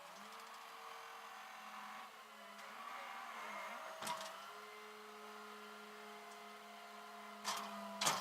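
A vehicle engine running at a steady speed, its hum shifting slightly in pitch a couple of times, with a sharp click about four seconds in and two more near the end.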